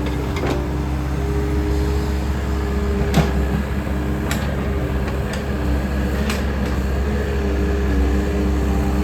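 Takeuchi machine's diesel engine running steadily under load as it clears brush, with a few short sharp cracks about three, four and a half and six and a half seconds in.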